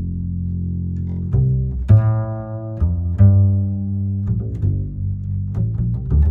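Loud, bass-heavy music played through a large truck-mounted 'sound horeg' parade sound system. Deep bass notes change pitch every second or so, with sharp hits over them.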